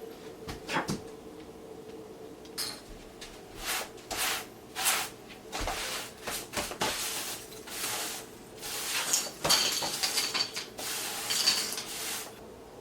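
Irregular metallic clinks, clicks and clatters of small door hardware and hand tools being handled while a new door knob and deadbolt are finished off.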